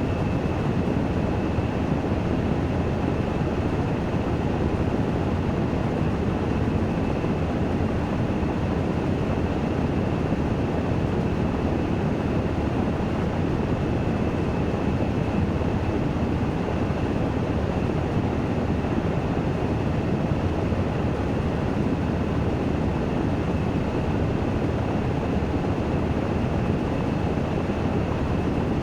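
Washing machine in its spin-dry cycle: a steady, even rushing drone with a faint high whine held above it.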